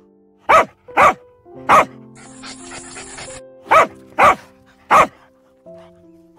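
Dachshund puppy barking: six short, sharp barks in two sets of three, over background music.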